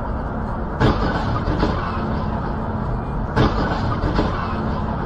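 Steady road and engine noise of a moving vehicle, with two sharp knocks about two and a half seconds apart.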